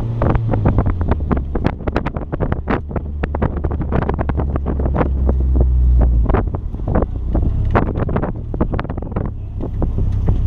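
Mazda Miata engine running at fairly low revs, swelling up to about six seconds in and then easing off, with constant short sharp crackles of wind buffeting the microphone.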